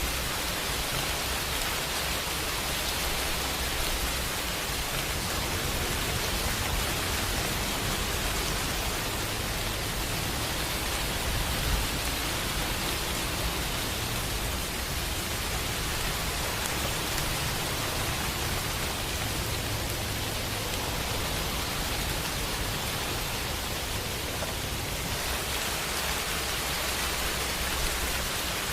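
Steady rain falling, an even hiss with a low rumble underneath that swells and fades, strongest around the middle.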